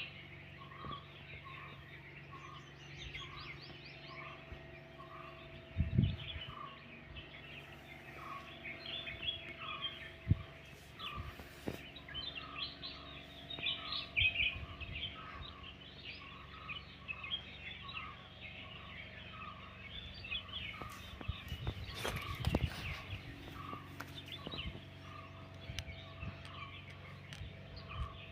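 Outdoor birdsong: many birds chirping, with one short call repeated steadily about once a second over a faint steady low hum. A few low thumps come through, about six and ten seconds in and again near twenty-two seconds.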